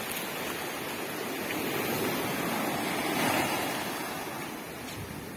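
Ocean surf breaking and washing up a beach: a steady rush that swells to its loudest a little past halfway and then eases off.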